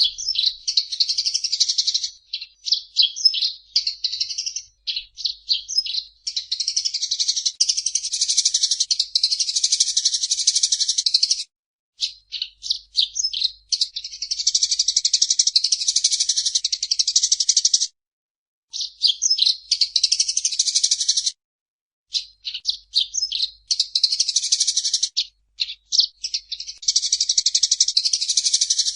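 Eurasian tree sparrow chattering song: quick high-pitched chirps that run into long, dense, rapid trills lasting several seconds, broken by short pauses and loose series of single chirps.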